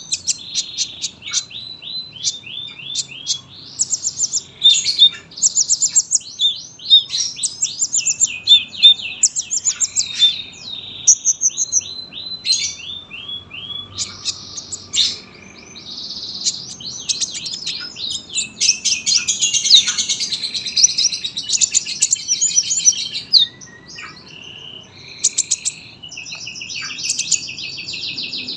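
Kolibri ninja sunbird singing energetically in long, rapid trilled phrases of high, sharp notes, with only brief pauses.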